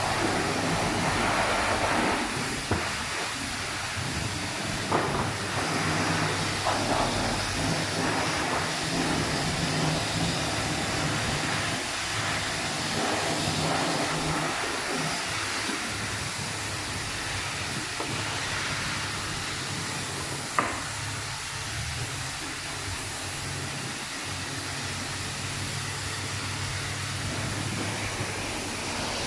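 Car wash heard from inside the car's cabin: a steady hiss of water spray over a low machine hum, with a few short knocks, the sharpest about twenty seconds in.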